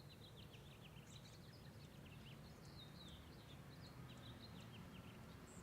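Faint birdsong: many short, high chirps from small birds, over a low steady background noise.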